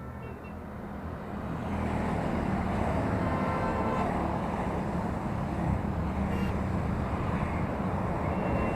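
A group of motorcycles riding past, their engines growing louder over the first two seconds and then running steadily.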